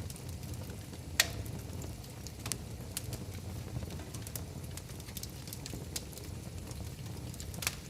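Wood fire crackling in a fireplace: a steady low rumble of flames under scattered small pops, with two sharp, louder pops about a second in and near the end.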